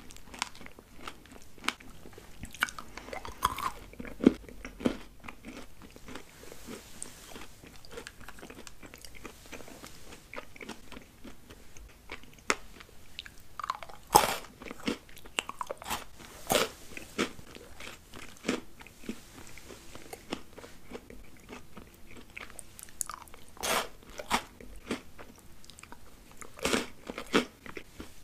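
Close-up eating sounds of chocolate sweets: steady chewing broken by sharp crunchy bites every few seconds, the loudest crunches about halfway through.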